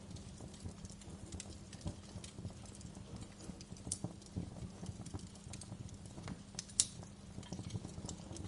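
Fire crackling: irregular sharp crackles and pops over a steady low rumble of the flames, with one sharper pop near the end.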